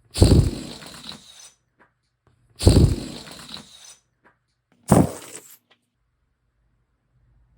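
A rubber balloon being struck three times, about two and a half seconds apart. Each hit is a sudden thump that fades out over about a second.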